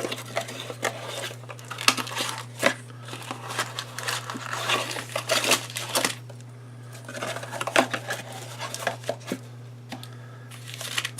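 Plastic wrap on a trading-card blaster box being crinkled and torn by hand, in irregular rustles and sharp snaps, over a steady low hum.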